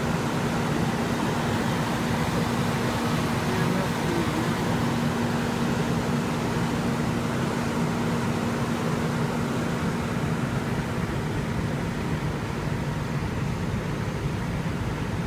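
Steady idling engine rumble with a constant low hum, unchanging throughout.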